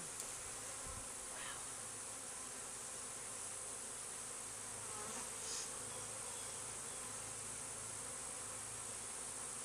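Honeybee swarm buzzing in a steady, even drone as the bees move into a swarm trap.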